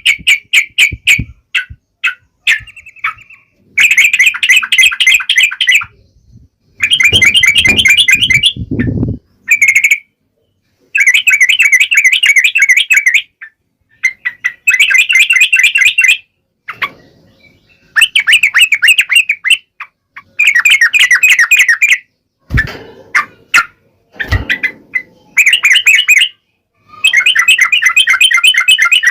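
Sooty-headed bulbul (trucukan) singing in repeated bursts of rapid, chattering notes, each lasting about two seconds, with short pauses between. There is a stretch of low rumbling noise about a third of the way in, and two low thumps past the middle.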